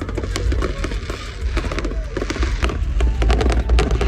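Fireworks popping and crackling in quick succession over music with a heavy, steady bass.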